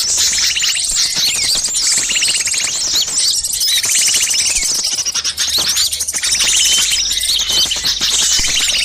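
Many small songbirds chattering and calling over one another in an agitated, noisy chorus, with dense rapid trills and quick sweeping chirps. A faint low hum runs underneath.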